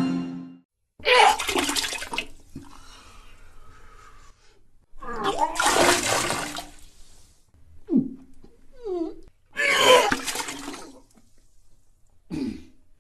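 Toilet-flush sound effects: several separate short bursts of rushing, gurgling water with gaps between. The main bursts come about a second in, midway and near the end.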